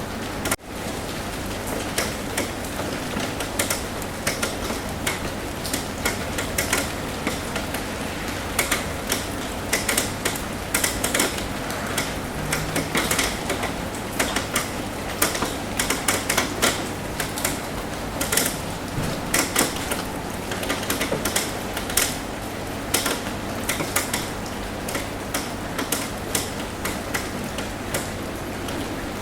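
Rain tapping on a roof: an even patter with many irregular, sharp drop taps. The sound dips briefly about half a second in.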